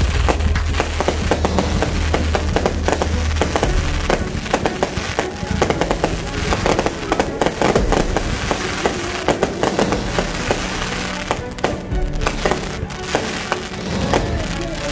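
Fireworks display: aerial shells bursting in a dense run of rapid bangs and crackles, over music with steady held notes.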